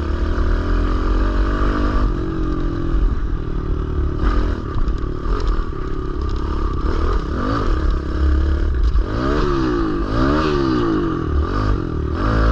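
Kawasaki KLX110L pit bike's small single-cylinder four-stroke engine running under a rider, the revs rising and falling again and again in the second half. Wind rumbles on the microphone.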